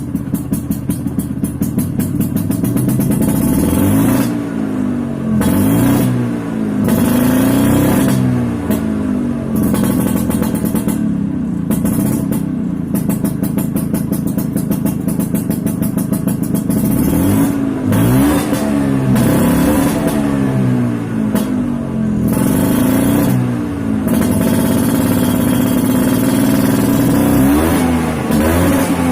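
Two-stroke Vespa PTS scooter engine through a DRT Racing expansion-chamber ('udang') exhaust, revved again and again. It pulses at idle at first, then the pitch climbs and falls back with each blip of the throttle, about every one to two seconds.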